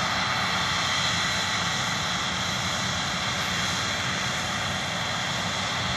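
Claas Lexion combine harvester running steadily while it harvests: an even drone with faint steady whining tones in it and no breaks.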